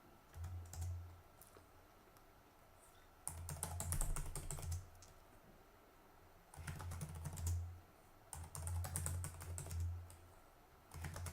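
Computer keyboard typing in several short bursts of rapid key clicks with pauses between, as commands are entered at a terminal.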